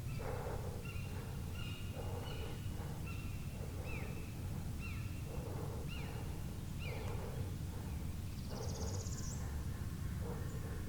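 A songbird repeating a short falling whistle about once a second, over a series of short scratchy sounds at a similar pace and a steady low rumble. A brief high buzzy trill comes near the end.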